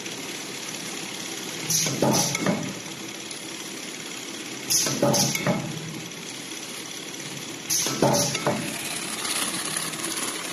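Straw bundling packing machine running with a steady hum and a short clattering burst of two or three quick knocks about every three seconds, three times, one burst per wrapping cycle.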